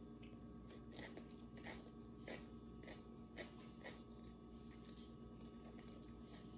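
Faint chewing and mouth sounds of a person eating with the fingers: soft wet clicks and smacks, irregular, one or two a second.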